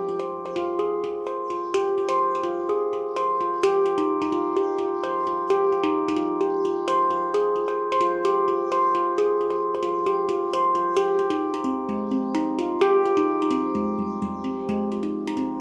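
Handpan tuned to F low pygmy, by Nimo Sounds, played in free improvisation: a quick, steady stream of hand strikes with ringing, overlapping notes.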